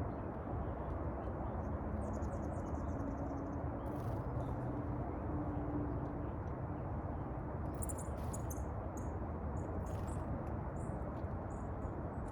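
Small birds calling: a rapid high trill about two seconds in, then thin high chirps and short chips from about eight seconds on, over a steady low rumble.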